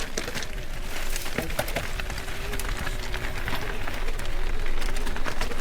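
Mountain bike riding over a wet, rough trail: wind rumbling on the microphone, tyre noise and a steady run of rattling clicks and knocks from the bike.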